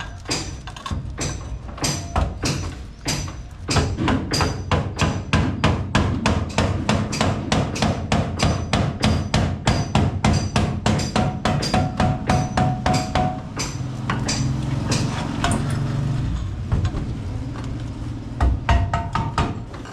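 Rapid hammering, about four sharp blows a second, thinning out about two-thirds of the way through with a few more blows near the end.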